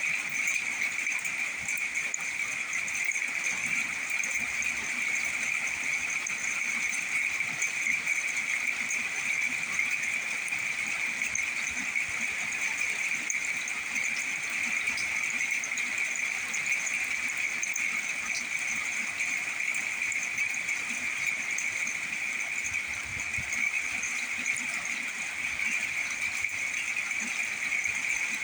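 Steady, unbroken chorus of high-pitched calling animals, a dense night chorus that holds one pitch throughout.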